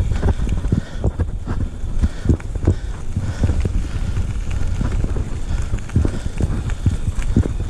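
A steady run of irregular knocks and thuds, several a second, over a low rumble of wind on the microphone, as from a rider moving along a trail.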